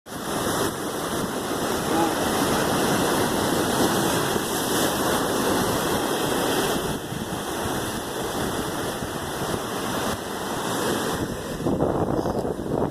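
Ocean surf: waves breaking and washing up the beach in a continuous rush of water.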